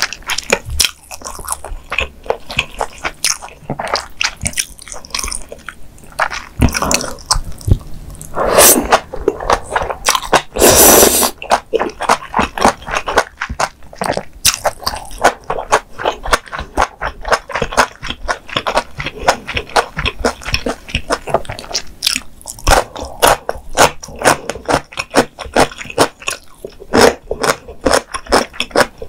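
Close-miked chewing of mala xiang guo with glass noodles and tofu skin: a steady, rapid run of wet, crunchy bites and chews, broken by two longer, louder stretches about nine and eleven seconds in.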